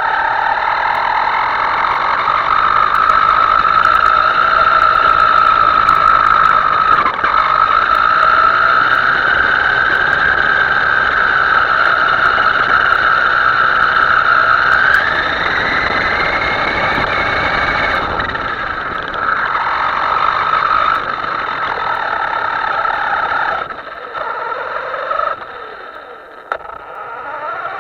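Small electric motor of a radio-controlled model boat whining steadily, its pitch rising and falling with the throttle. It eases off and goes quieter near the end, then starts to climb again.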